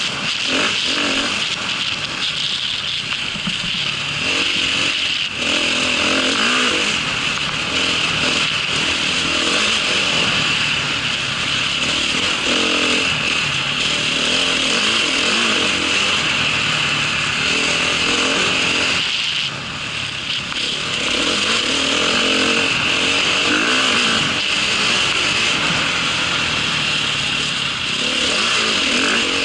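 Off-road motorcycle engine running under load as it is ridden, its pitch rising and falling with the throttle, with a brief drop in power about two thirds of the way through.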